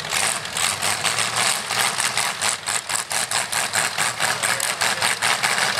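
A stalled demolition-derby truck's engine being cranked over by its starter without catching, a rapid even pulsing about six times a second.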